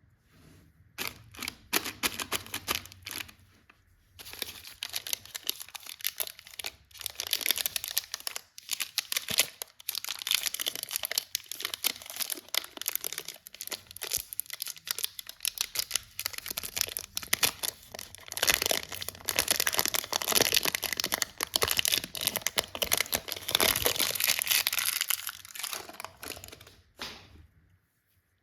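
Candy wrappers and packaging crinkling and tearing as they are opened by hand, in dense irregular runs with a short pause about four seconds in; it stops about a second before the end.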